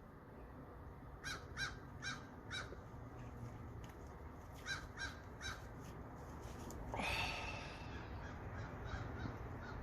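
Crows cawing: a run of four short caws, then a run of three. About seven seconds in comes a louder, harsher sound lasting about a second.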